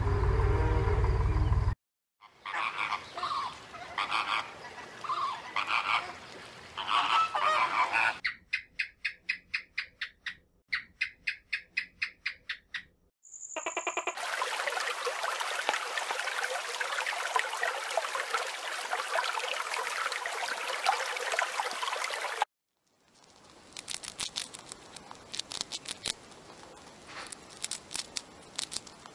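Cattle mooing for the first couple of seconds. After a cut come other animal calls, then a fast, evenly pulsing croak, a steady hiss, and light scattered clicks near the end.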